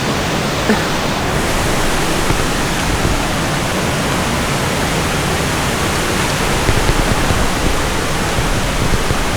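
Steady rush of water from a jungle waterfall and its rocky stream, a loud, even hiss that does not change.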